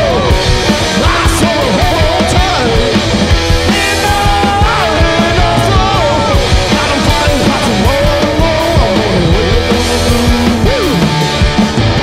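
Live punk-blues rock played loud by a band: an electric guitar line bending and wavering in pitch over steady drum hits.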